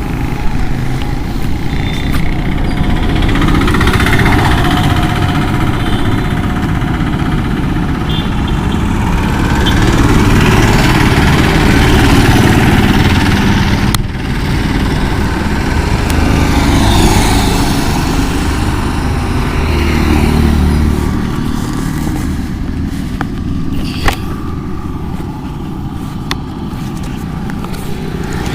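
Motorcycle engine running while riding on the road, mixed with wind noise on the camera microphone, swelling louder and easing off a few times.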